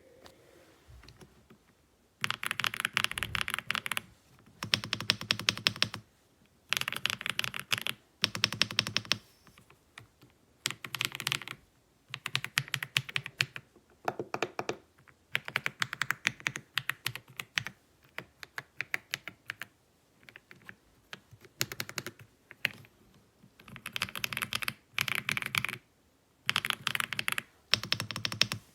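Typing on an AULA F75 mechanical keyboard with pre-lubed Reaper switches: fast runs of key clicks a second or two long, broken by short pauses.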